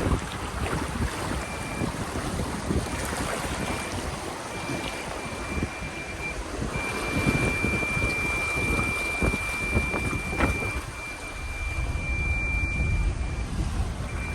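A vehicle wading through about half a metre of floodwater: water rushing and sloshing against it with a low rumble. Over it a high electronic warning beep sounds on and off, then holds as one steady tone for several seconds before breaking up again near the end.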